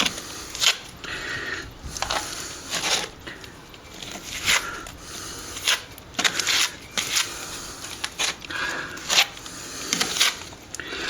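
A plastering trowel scraping and swiping over a wet sand-and-stopping-plaster patch on a wall, in a series of short, uneven strokes with the odd sharp click.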